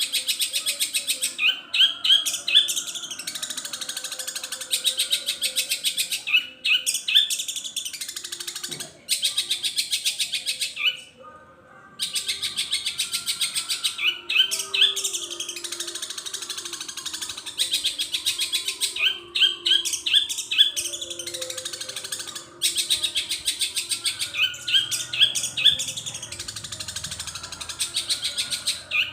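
Long-tailed shrike (cendet) singing a long, continuous song of very fast, high chattering notes, laced with imitated phrases of other birds such as the house sparrow. Short rising phrases come back about every five seconds, and the song breaks off briefly three times.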